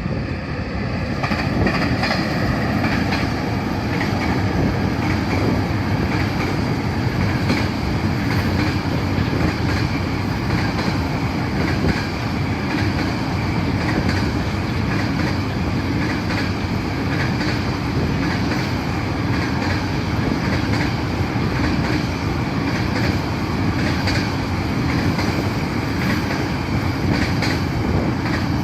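A freight train's wagons rolling steadily past, with wheels clicking repeatedly over the rail joints.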